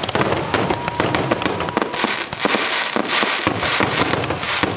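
Aerial fireworks going off in a rapid, overlapping run of bangs, with a dense spell of crackling in the middle.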